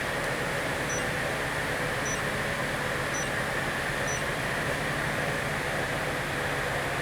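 D4CB diesel engine running steadily, with four short high beeps about a second apart in the first half.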